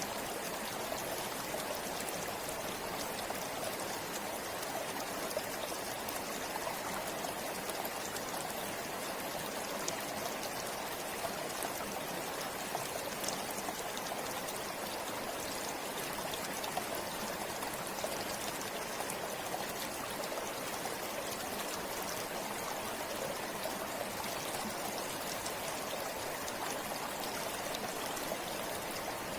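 A river or stream flowing steadily, a constant rush of water with small splashes and trickles scattered through it.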